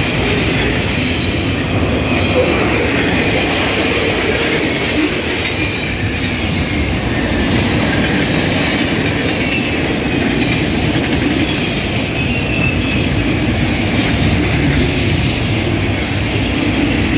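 CN freight train's cars rolling past close by: a steady rumble and clatter of wheels on rail, with faint, wavering high-pitched wheel squeal over it.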